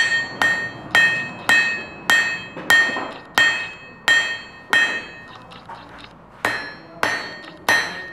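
Blacksmith's hammer striking metal on an anvil, about two ringing blows a second. The run pauses a little after five seconds in, then three more blows follow.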